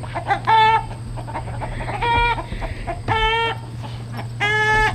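Agitated chickens giving alarm calls: four short, loud squawks of steady pitch, roughly a second apart, from a flock stirred up and throwing a fit after a fright. A steady low hum runs underneath.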